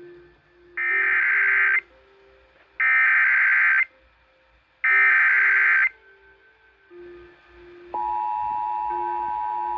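Emergency Alert System broadcast: three one-second bursts of SAME header data tones about a second apart, then about eight seconds in the steady two-tone EAS attention signal begins.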